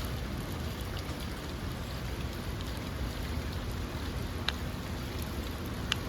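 Steady rain falling, with a few sharp drops striking close by, the loudest just before the end, over a low steady rumble.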